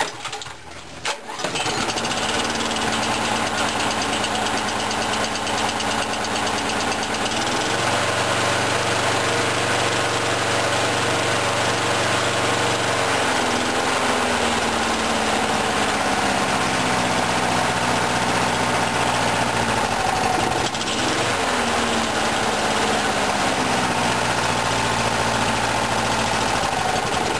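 Briggs & Stratton lawnmower engine pull-started cold on choke, catching after about a second and a half and then running, its speed stepping up and down several times. It is not yet idling smoothly because it is still cold.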